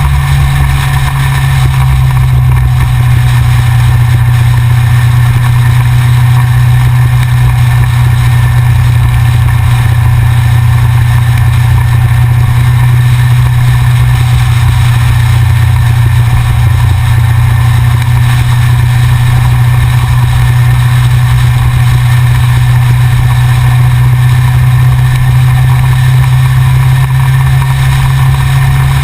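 Yamaha XJR's air-cooled inline-four motorcycle engine running at a steady cruise, its note holding an even pitch, with road and wind noise.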